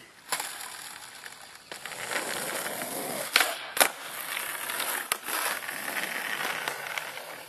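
Skateboard rolling with a steady wheel noise, broken by four sharp clacks of the board hitting the ground, the two loudest close together about three and a half seconds in.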